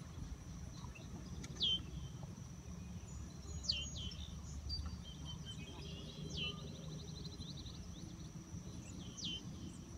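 Outdoor bird calls: a short downward-sweeping chirp repeated every two to three seconds, with a brief rapid trill near the middle, over a faint steady high hum and a low rumble.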